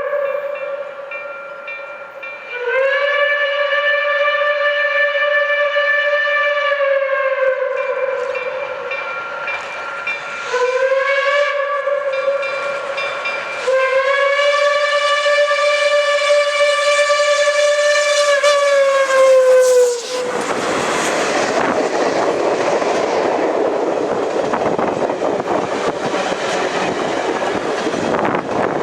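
Reading & Northern 2102, a 4-8-4 steam locomotive, sounding its chime steam whistle in three blasts, long, short and long, each sagging in pitch as it is let off, the pattern of a grade-crossing signal. About two-thirds of the way through, the whistle stops and the locomotive and its train pass close by with a loud, steady rush of exhaust and wheels on rail.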